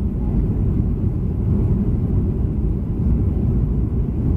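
Steady low rumble of a Boeing 737-300 heard from inside the passenger cabin: engine and airflow noise with no distinct events.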